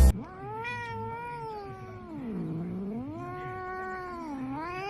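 Domestic cat giving a long, drawn-out yowl that sinks low in pitch and climbs back up twice, lasting about five seconds.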